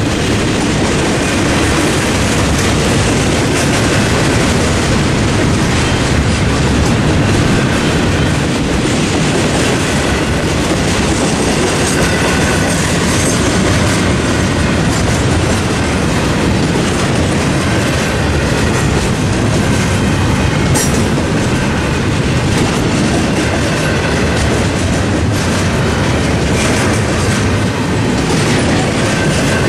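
Double-stack intermodal freight train's well cars rolling past, a steady loud rumble with wheels clacking over the rail joints.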